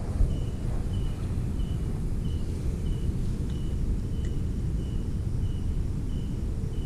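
Steady low wind noise on the microphone at night, with an insect's short high chirp repeating evenly about one and a half times a second.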